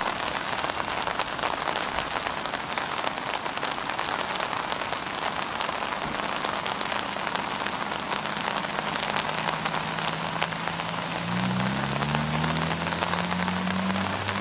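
Steady heavy rain falling, with many separate drop ticks. About eleven seconds in, a low engine drone comes in and slowly rises in pitch, growing louder.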